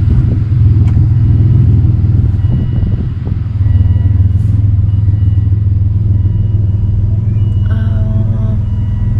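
A car engine idling, a steady low rumble, with a faint high beeping tone repeating about once a second over it.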